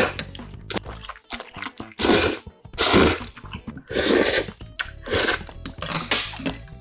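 Close-miked eating sounds: a person chewing and slurping a spoonful of budae-jjigae stew, with loud wet mouth bursts about once a second.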